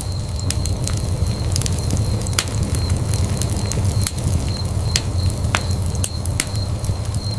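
Wood fire burning in a fireplace, crackling with irregular sharp pops, several a second, over a steady low rumble of the flames.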